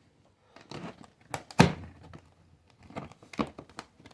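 Cardboard box and packaging being handled: rustling and scraping strokes, with a heavy thump about one and a half seconds in.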